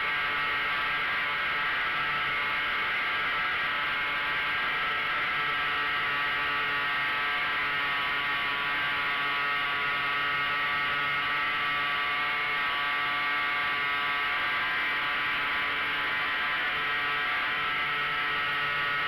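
Engine and propeller of a quarter-scale Hangar 9 Taylorcraft RC airplane running at a steady throttle, heard from a camera mounted on the airframe: an even drone over a hiss, holding one pitch after settling from a rise just before.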